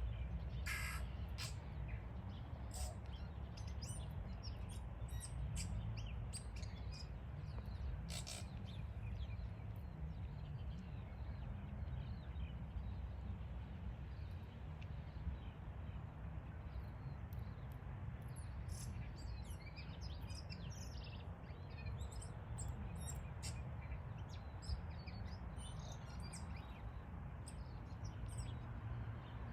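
Birds chirping in short scattered calls, busiest in the latter half, over a steady low rumble.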